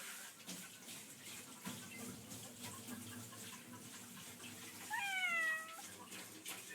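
A domestic cat meows once about five seconds in: a single call under a second long that rises briefly, then slides down in pitch. It is the call of a cat wanting to be let out.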